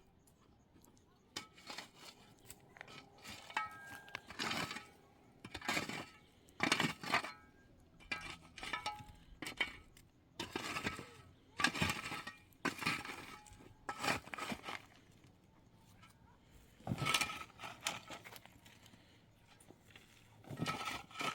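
A series of about fifteen irregular clinks and scrapes of hard objects, some with a short metallic ring.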